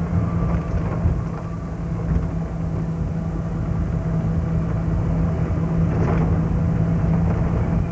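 Passenger ride train running: a steady low rumble under a constant low hum.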